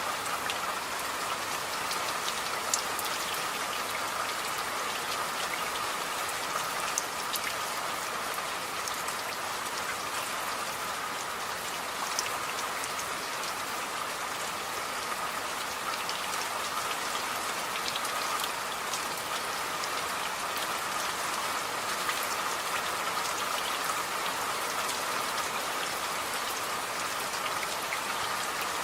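Steady rain, an even hiss with single drops ticking sharply here and there.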